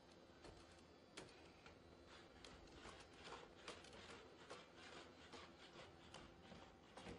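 Faint, irregular taps and clicks of a SpotMini quadruped robot's feet on a hard floor as it walks, a few per second and thickest in the middle, over a faint steady hum.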